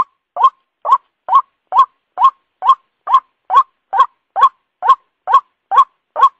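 White-breasted waterhen call played as a bird-trapping lure: short rising notes repeated evenly, a little over two a second, with gaps of silence between them.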